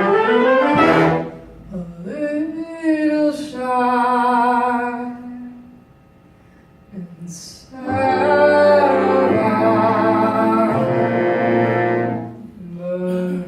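Live jazz band with a horn section playing long held chords behind a female singer. About halfway through it drops nearly to silence for a second or two, then comes back in with a loud, full held chord.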